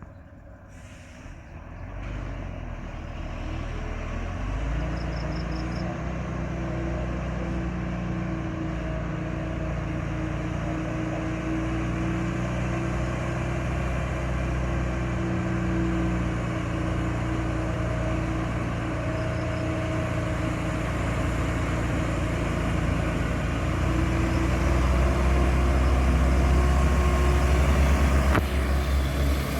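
A truck engine running steadily under load, growing gradually louder and loudest near the end.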